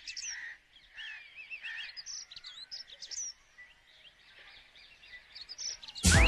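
Birds chirping and trilling, a scatter of short, faint calls overlapping one another. Loud music with a rising sweep cuts in abruptly near the end.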